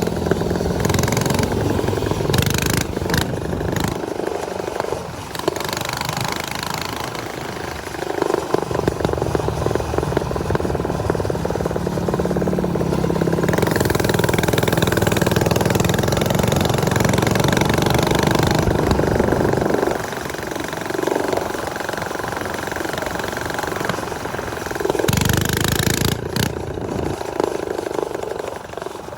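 Small motorbike engine running under way on a ride, its speed and load rising and falling. It pulls hardest from about 8 to 20 seconds in, with a rushing noise over it.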